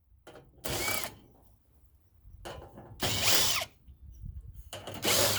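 Power drill running in three short bursts, backing screws out of the furnace's sheet-metal cabinet.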